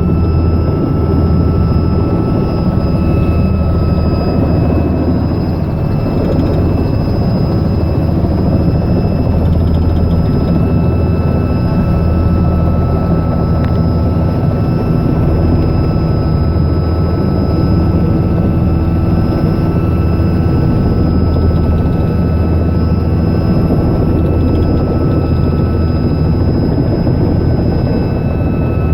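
Robinson R66 helicopter running steadily: a low throb from the rotor under the thin, steady high whine of its Rolls-Royce RR300 turbine.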